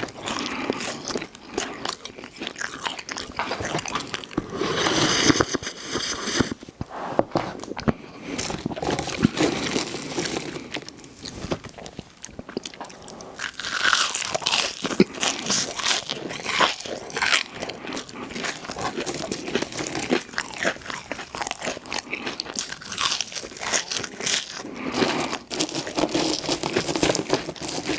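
Close-miked eating: a person biting into and chewing crunchy fast food, with repeated crunches and mouth sounds in quick, irregular succession.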